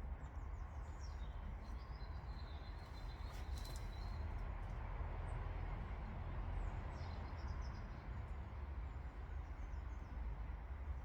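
Steady outdoor background noise with a low rumble, and small birds chirping now and then.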